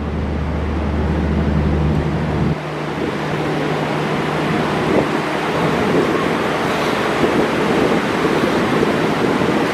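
Railway noise: a low, steady engine-like hum cuts off about two and a half seconds in and leaves a steady rushing noise.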